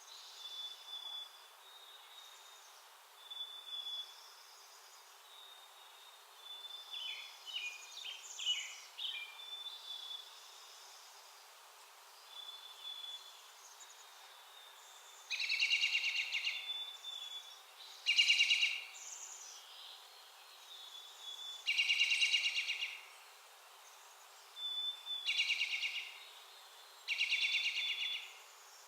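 Small backyard songbirds calling: thin, short high notes in the first half, then five louder buzzy, rapidly pulsed calls, each about a second long, from about halfway.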